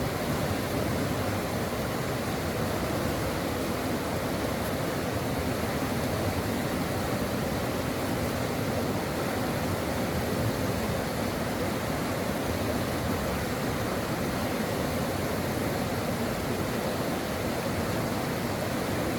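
Brook water running steadily, an even rushing noise with no breaks.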